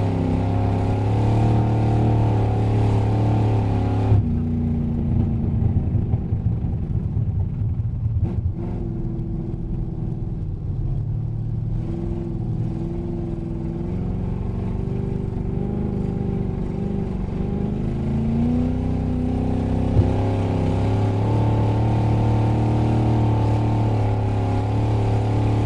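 Race car engine heard from inside the cabin, running under throttle with its pitch gently rising and falling. It eases off and goes rougher about four seconds in, then picks back up and holds steady again in the second half.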